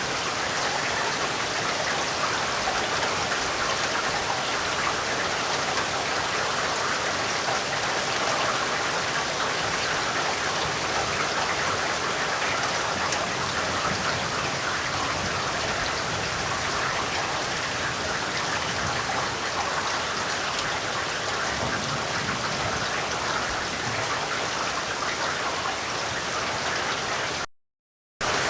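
Steady heavy rain, a dense even hiss of drops. Near the end it cuts out to silence for under a second, then comes back.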